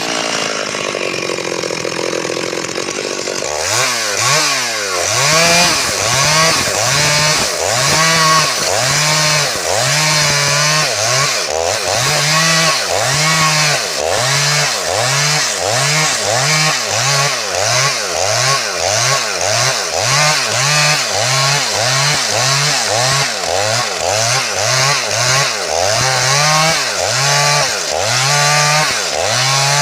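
Stihl MS 382 two-stroke chainsaw running at high revs. It runs fairly steadily for the first few seconds, then its engine pitch rises and falls about once a second.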